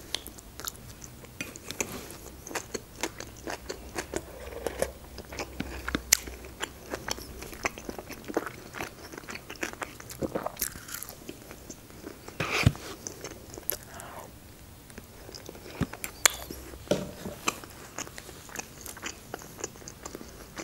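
Close-miked eating sounds: biting and chewing a doner wrap in flatbread, with many small mouth clicks and one louder click a little past halfway.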